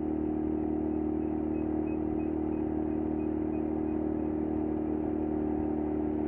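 Mazda FD3S RX-7's 13B-REW twin-rotor rotary engine idling steadily, heard close at the stock muffler's exhaust outlet.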